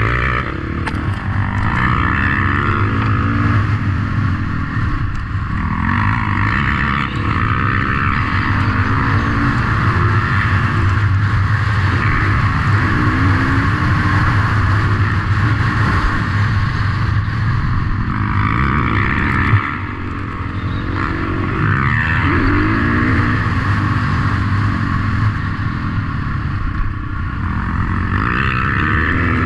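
Motocross motorcycle engines running hard and revving, their pitch rising and falling through gear changes and throttle. A brief thump comes about two-thirds of the way through.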